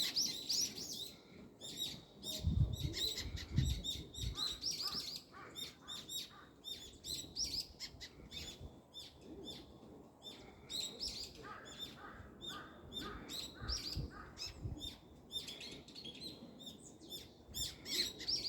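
Many small birds chirping and twittering, with short, quick calls overlapping all the way through. A few brief low rumbles come about two to four seconds in and again near the middle.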